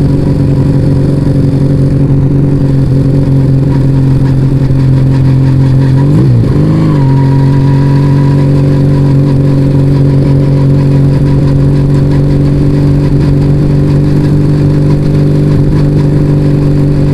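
Yamaha Vega ZR motorcycle engine running through an aftermarket Arrow exhaust, holding a steady cruising note under way. About six seconds in the pitch dips briefly and comes back up to the same steady note.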